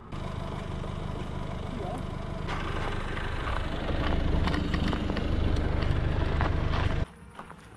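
Car engine running with a steady low rumble, growing louder about two and a half seconds in, then stopping abruptly near the end.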